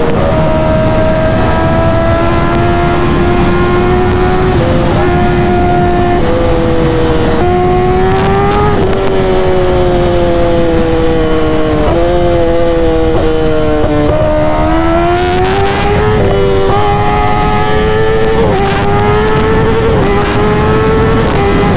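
Kawasaki ZX-10R inline-four with an SC Project exhaust, loud and running under way. The engine pitch climbs and falls and jumps several times as the bike is ridden through the gears.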